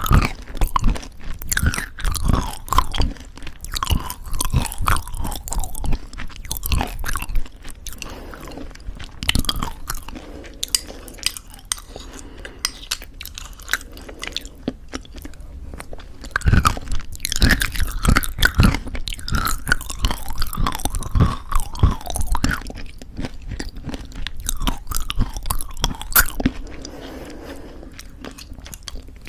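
Close-miked chewing of crunchy homemade granola in thick yogurt, with crisp crunches coming in runs. There is a softer stretch of chewing in the middle and again near the end.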